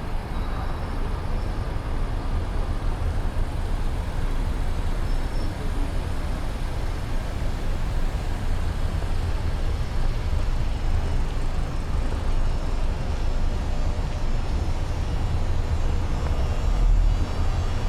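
Steady downtown street traffic: a continuous low rumble of passing cars and buses.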